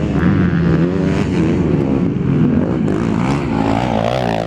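Several 250 cc racing motorcycles revving during a race, their engine notes rising and falling over one another.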